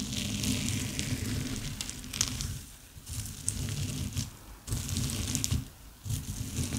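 Slime being squeezed and stretched by hand, with air bubbles popping in fine crackles. It comes in several rounds with short pauses between them.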